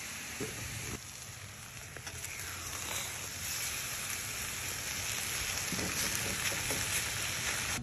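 Ground meat and sliced potatoes sizzling steadily in a hot cast-iron skillet as a spatula turns the hash over.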